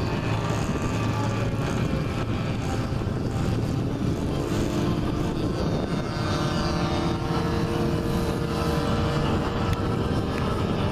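Engine of a radio-controlled model aircraft running at a steady pitch, with a faint steady tone coming through from about four seconds in.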